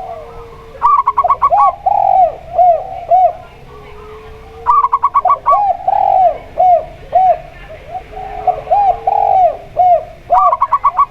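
Zebra dove (perkutut) singing its phrase three times: a fast stutter of short notes, then a string of rounded coos. Between phrases, a spotted dove (tekukur) gives lower, longer coos.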